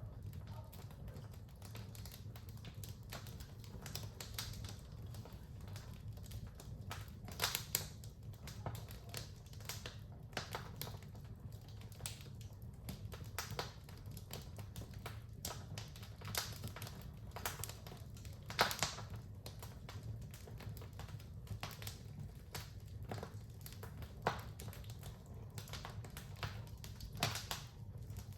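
Wood fire crackling in a fireplace: irregular sharp pops and snaps, a few louder ones scattered through, over a steady low rumble of the flames.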